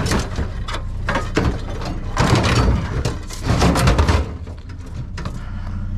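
A vehicle engine idling steadily, with a series of irregular knocks and clatters of handled objects over it, the loudest about two seconds in and again around three and a half seconds in.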